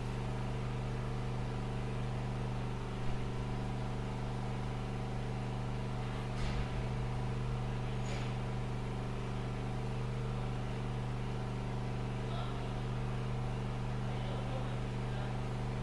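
A steady low hum at one unchanging pitch, with a couple of faint clicks about 3 and 6.5 seconds in.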